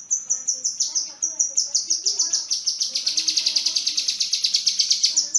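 Kinoi songbird singing a rapid run of high, downward-sliding whistled notes. About halfway through, the notes speed up into a fast, dense trill that breaks off shortly before the end.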